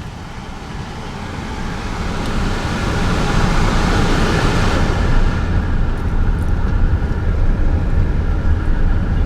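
Car interior noise as it drives slowly: engine and tyre rumble that builds over the first few seconds, with a stretch of brighter hiss, like wind or gravel, in the middle.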